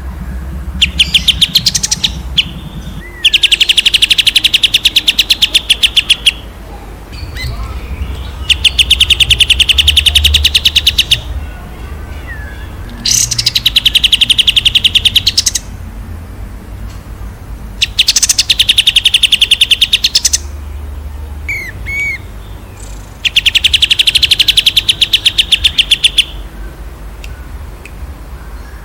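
A songbird singing loud, fast trilled phrases of rapid repeated notes, each two to three seconds long, six times over, with a few short single notes in the gaps.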